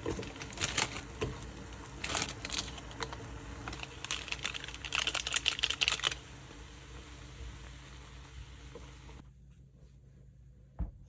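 A run of small, quick clicks and crinkly rustling, densest around five to six seconds in, then it stops, leaving a faint hum and a single knock near the end.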